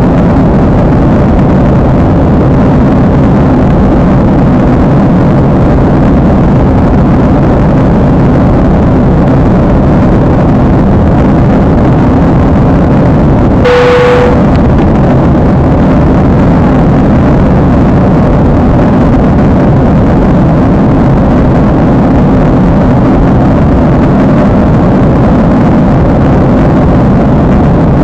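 Steady engine and airflow noise inside a jet airliner's cabin in flight. About halfway through, a single short chime sounds.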